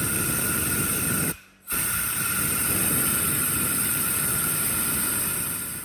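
Compressed air from a blow gun hissing through the jets and passages of a Honda XR100 carburetor to clear them, a steady hiss with a thin whistle in it. It stops briefly about a second and a half in, then runs on and stops near the end.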